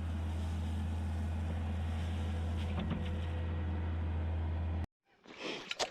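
Engine idling with a steady low hum that cuts off abruptly about five seconds in; faint, indistinct sounds follow just before the end.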